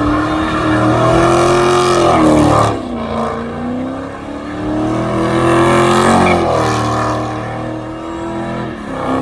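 Car engine revved hard and held at high revs twice, each time for a few seconds, the pitch wavering up and down before falling away.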